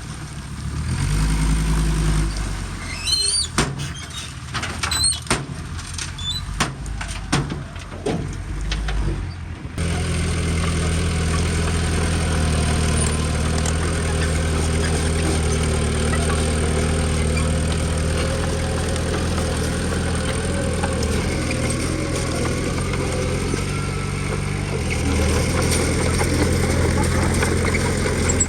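Irregular metallic clanks and knocks with a few high squeaks, then an abrupt change about ten seconds in to a heavy diesel engine of earthmoving machinery running steadily at a constant pitch, getting a little louder near the end.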